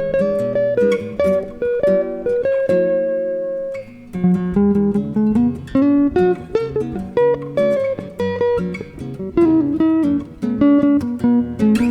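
Two guitars, a nylon-string flamenco guitar and a Telecaster electric, playing a duet of picked melody lines over chords. About three seconds in, a chord is left ringing and fades, and the playing resumes about a second later.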